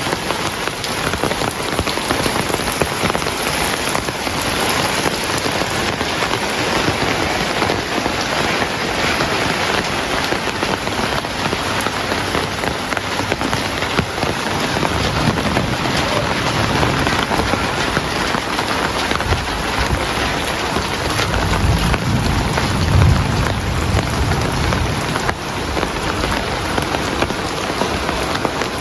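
Heavy rain falling steadily, with low rolls of thunder rumbling in the second half, loudest about two-thirds of the way through.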